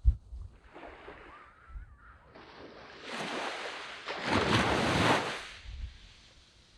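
A wave breaking and washing up a sand beach: the surf hiss swells from about two seconds in, peaks around five seconds and fades away. A short low thump of wind on the microphone comes at the very start.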